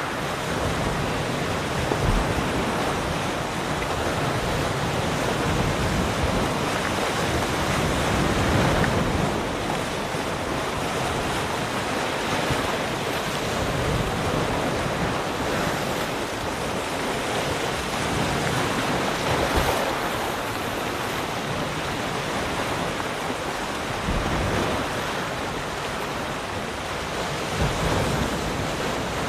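Ocean surf: waves breaking and washing in as a continuous rush of noise that swells and eases every few seconds, with wind buffeting the microphone.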